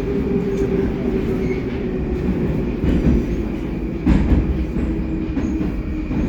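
Running noise inside a Baltiets (81-722 series) metro car in motion: a steady low rumble with a humming tone from the traction drive that slowly falls in pitch. A single loud wheel knock comes about four seconds in.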